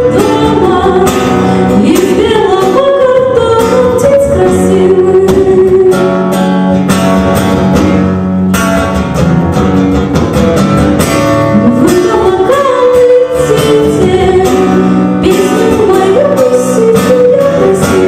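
Live song: a singing voice over acoustic guitar accompaniment.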